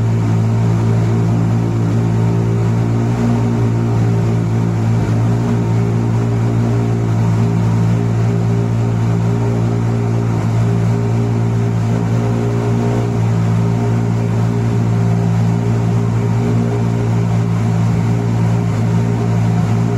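Ferrari Monza SP2's 6.5-litre V12 idling steadily, an even, unchanging engine note with no revving.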